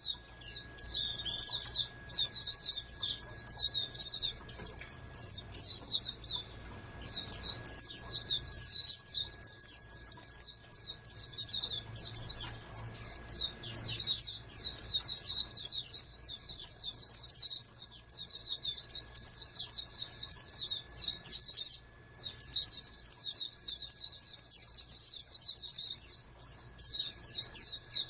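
Pleci (white-eye) songbird singing a fast, high, continuous twittering song in long runs with a few brief breaks.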